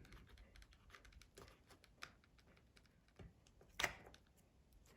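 Faint, irregular small clicks and scrapes of a pry tool working under the glued battery of an iPhone 5S, with one sharper click a little before four seconds in.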